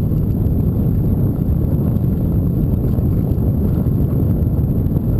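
Wind buffeting the microphone on a moving bike ride: a steady low rumble that does not let up.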